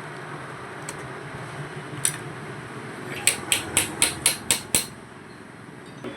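Metal being struck with a hand tool: a single sharp tap, then a quick run of about seven sharp taps at roughly four a second.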